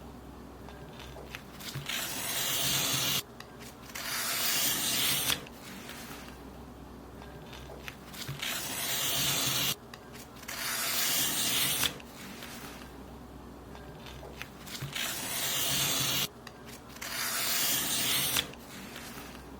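Paper being cut in long strokes, about six in a row. Each is a dry hiss that grows louder for a second or two and then stops suddenly.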